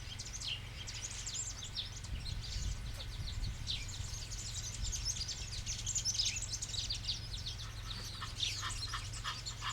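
Many small birds chirping and calling at once in a dense, overlapping chorus of short high notes, over a low steady rumble.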